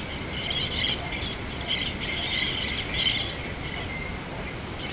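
Birds chirping and chattering in uneven bursts over a steady hiss.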